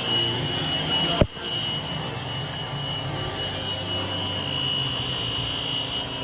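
Car-wash equipment running with a steady roar and hiss and a high whine. A sharp click comes about a second in.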